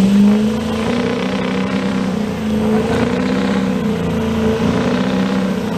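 Pull truck's engine running at a steady speed, with a slight wavering in pitch.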